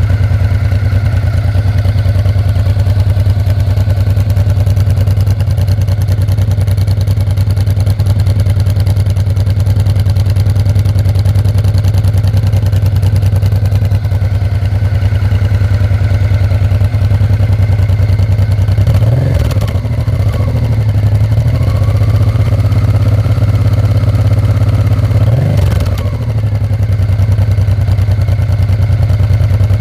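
Honda XRV750 Africa Twin's V-twin engine idling steadily through its exhaust, with two short throttle blips, one about two-thirds of the way through and another about six seconds later.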